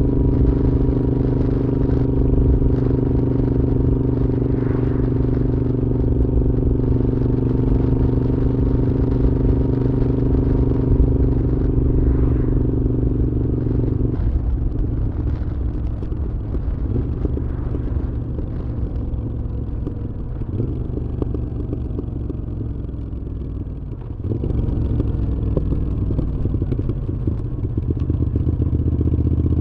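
Moto Guzzi V7's air-cooled transverse V-twin through a Mistral exhaust, running at steady revs under way. About halfway through the steady note breaks off into a rougher, shifting run, and the engine picks up again a few seconds before the end.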